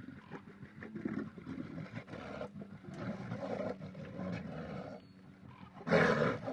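Bear growling in rough bursts, with a louder roar near the end.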